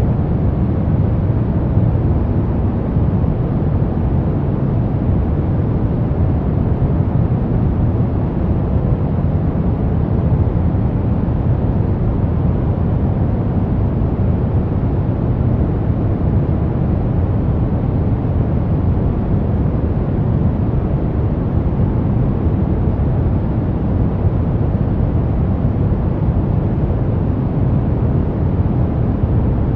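Brown noise: a steady, even rumbling hiss, strongest in the low end and fading toward the highs, with no changes or events.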